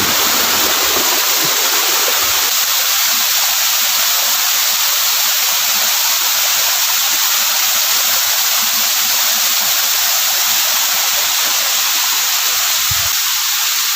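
Waterfall pouring, a loud, steady rush of falling water heard from close beneath the falls.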